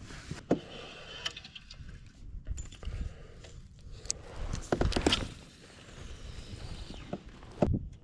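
Scattered clicks, knocks and rattles of fishing tackle being handled aboard a kayak, with a heavier knock about five seconds in and another near the end.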